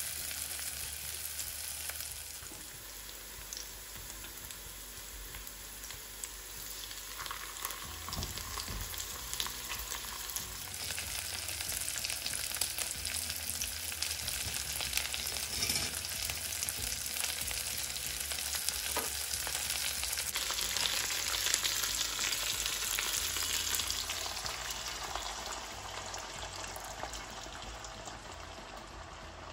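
Sliced onion and red chilies sizzling in hot oil in a wok, stirred with a spatula; then pieces of pork belly frying in the pan. The sizzle grows louder about a third of the way in and fades near the end.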